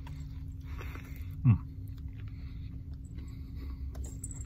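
A man biting into and chewing a crispy fried chicken sandwich, with a short falling "mm" from him about a second and a half in. A steady low hum from the car runs underneath.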